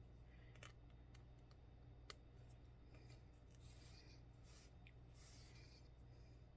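Near silence: faint soft clicks and rustles of a cross-stitch needle and thread being worked through the fabric, with one sharper click about two seconds in, over a low steady hum.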